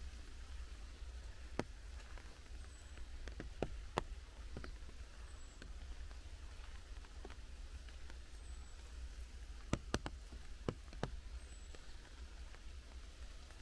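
Rain in a leafy forest: scattered sharp drips of water falling from the canopy over a faint steady hiss. A bird repeats one short, high, falling note about every three seconds.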